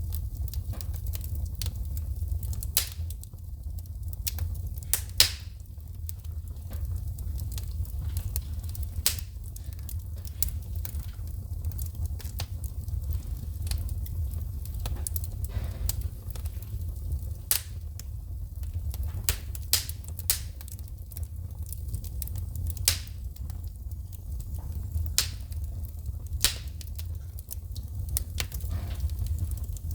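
Wood fire burning in a fireplace, crackling with irregular sharp pops and snaps of shooting sparks, the loudest about five seconds in, over a steady low rumble.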